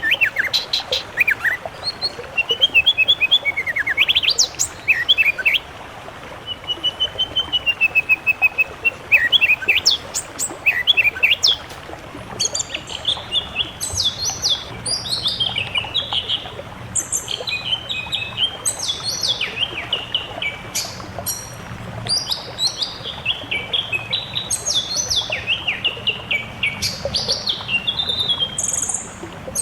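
Songbird song from a mix of species: varied chirps, whistles and trills, including a wavering whistled phrase, giving way about twelve seconds in to a dense, continuous chatter of quick falling notes.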